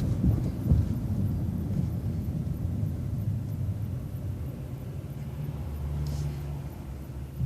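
City transit bus's diesel engine idling with a steady low rumble while the bus waits at a traffic light, with a brief hiss about six seconds in.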